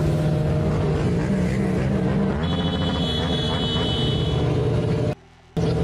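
A motor vehicle engine running steadily, with a thin high-pitched tone over it from about two and a half seconds in for about two seconds. The sound drops out for a moment near the end, then the engine carries on.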